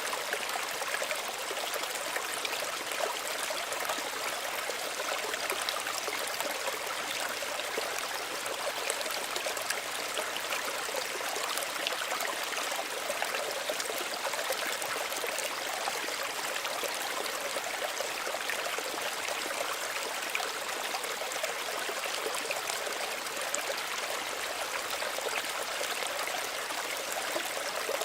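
Small stream running steadily, a continuous light splashing and trickling of shallow water over stones.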